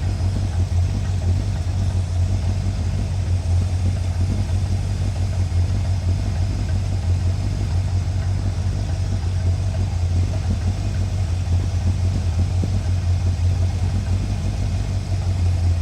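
1981 Corvette's 350 V8 idling steadily, a constant low hum with no revving.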